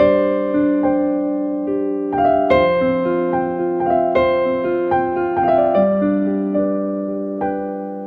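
Slow, soft keyboard music: sustained piano-like chords with notes struck every half second or so.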